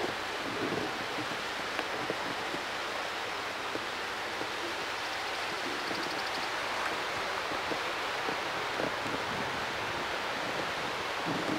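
Steady rush of water flowing out below a flood-control dam.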